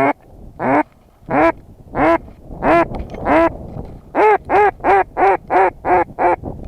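Hen mallard quacking on a hunter's duck call: six slow, evenly spaced quacks, then a quicker run of about eight.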